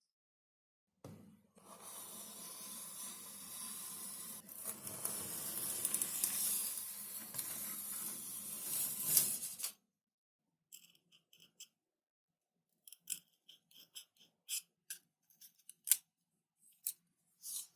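XPS foam sheet being worked with a tool: a steady scratchy, hissing scrape that lasts about nine seconds and stops abruptly, followed by scattered light clicks and taps.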